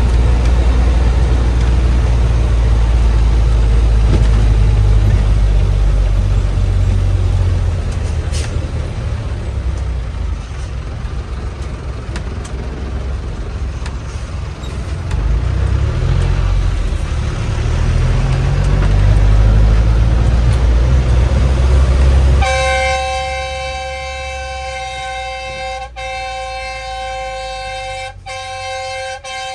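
Bus engine rumbling while the bus drives, its low drone rising and falling. About three-quarters of the way through the rumble drops away suddenly and a steady, sustained horn-like tone takes over to the end.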